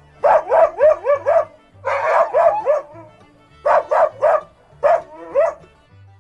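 A dog barking in four quick runs of short, high-pitched barks, each run of three to six barks, over background music with steady low notes.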